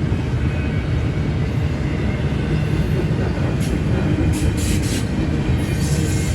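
Freight train of intermodal container cars rolling by with a steady heavy rumble. Short, high metallic sounds from the wheels join in during the second half.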